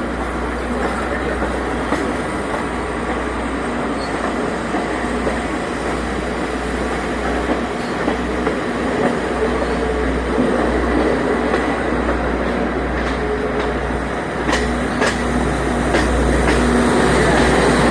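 Train running on the rails, a steady rumble with a handful of sharp wheel clicks over rail joints near the end.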